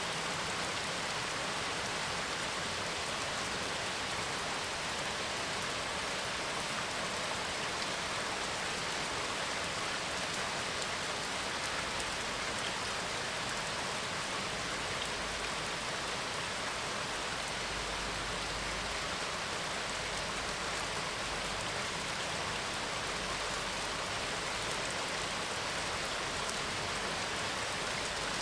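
Steady rain falling, a constant even hiss of drops, with a faint low rumble swelling in the middle.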